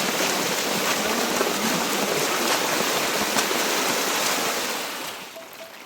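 Loud, steady rush of water that fades out near the end.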